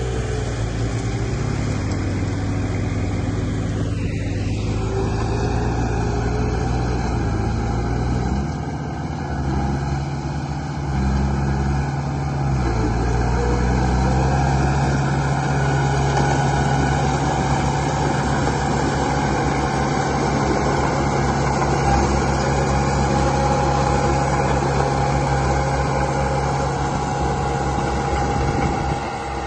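Remote-control construction vehicle running steadily with an engine-like drone whose pitch shifts up and down in steps, with a brief falling whine about four seconds in.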